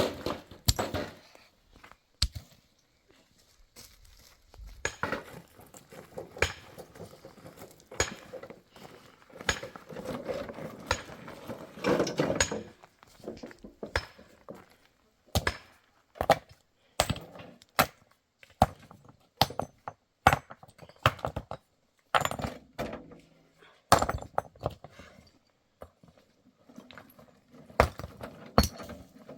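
An irregular series of sharp knocks and cracks, roughly one a second, with short stretches of rustling between them.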